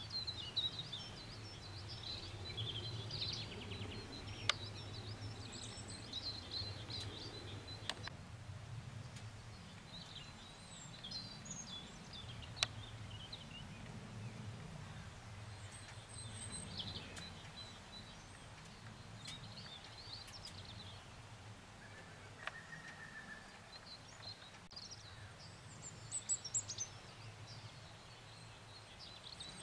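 Wild birds chirping and trilling again and again over a low, steady outdoor rumble, with a few sharp clicks.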